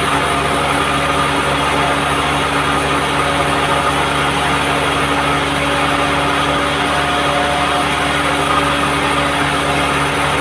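Band sawmill running steadily: a constant machine hum with several held tones that doesn't let up.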